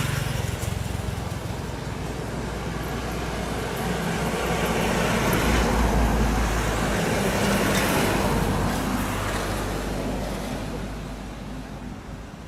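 A motor vehicle passing, its engine hum and road noise growing louder for several seconds, then fading away.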